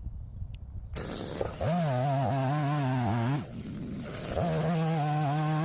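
Two-stroke chainsaw revved to full throttle twice, each burst lasting about two seconds, with the engine speed rising at the start and dropping back at the end; typical of a saw making the lengthwise cuts in a log for a Finnish candle.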